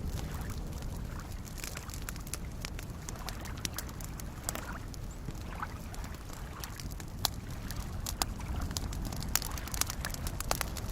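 Wood campfire crackling with scattered sharp pops, more of them in the second half, over a steady low wash of small lake waves lapping.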